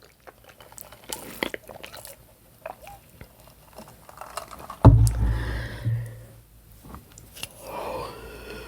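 Close-up chewing of ribeye steak, with wet mouth clicks and smacks. A loud, sudden low thump comes about five seconds in and fades over about a second.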